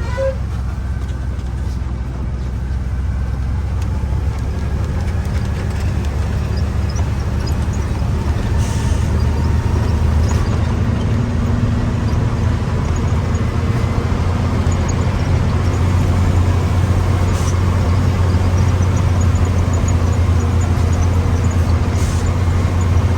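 Laden truck's diesel engine running steadily on the road, a continuous low drone that grows a little louder about halfway through.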